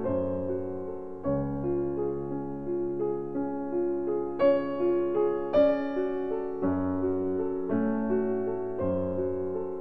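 Background piano music: a slow melody over held bass notes that change every second or so.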